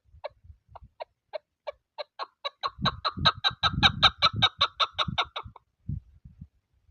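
Chukar partridge calling: a series of short clucking notes that speeds up about two seconds in into a rapid run of about six notes a second, then stops abruptly past the middle. Low gusts of wind buffet the microphone underneath.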